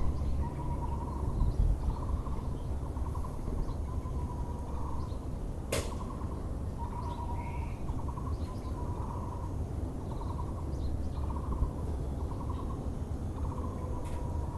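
Müller's barbet (Taiwan barbet) calling a steady series of short, low, trilled notes, roughly one a second, over a constant low background rumble. A single sharp click sounds just before the middle.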